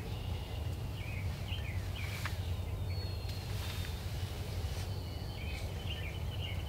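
Songbirds chirping and giving short whistled notes over a steady low rumble.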